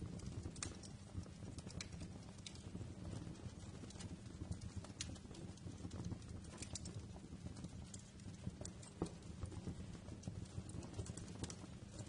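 Wood fire crackling in a fireplace: irregular sharp pops and snaps, about two a second, over a low steady rumble.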